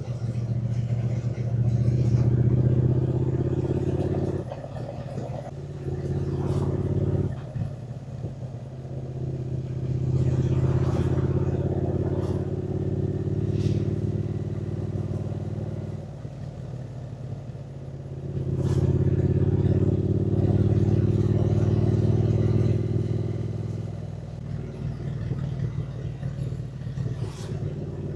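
Triumph Speed Twin 900's 900 cc parallel-twin engine running under way, its note swelling and falling back several times as the throttle is opened and closed, with a few brief clicks between.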